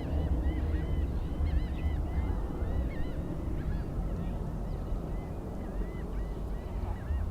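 A flock of birds, likely geese, calling over and over in short rising-and-falling honks, over a steady low rumble.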